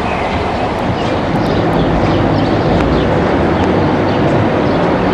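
Passenger train running on the track, a steady rumble, slightly louder from about two seconds in.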